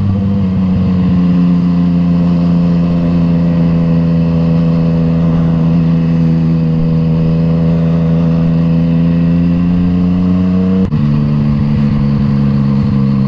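Yamaha MT-09 three-cylinder engine with an Akrapovič exhaust running steadily at low road speed, its note sinking slowly. About eleven seconds in it breaks briefly and steps down to a lower note, as with a gear change.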